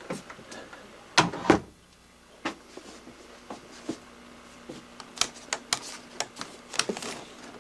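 Sharp clicks and knocks from something being handled indoors: two loud knocks a little over a second in, then a quick run of lighter clicks between about five and seven seconds.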